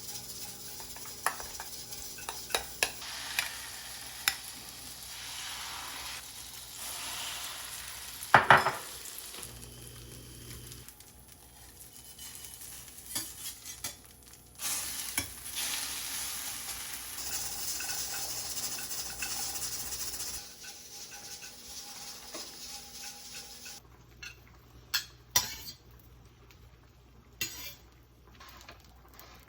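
Kitchen work: utensils clinking and scraping against dishes and pans over a steady hiss, with a loud sharp knock about eight seconds in and scattered clicks near the end.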